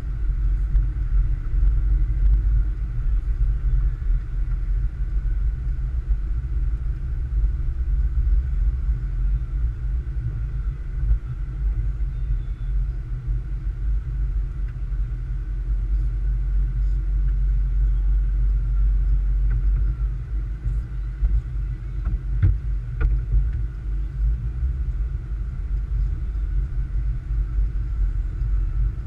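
A car being driven, with a steady low rumble of engine and road noise and a faint steady whine above it. There are a couple of faint clicks about three quarters of the way through.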